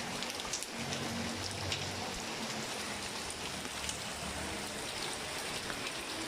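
Steady rain falling: a constant hiss with scattered sharp drop ticks.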